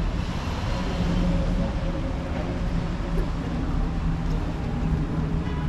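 Steady low hum of a running vehicle, with a held low tone and an even wash of noise over it.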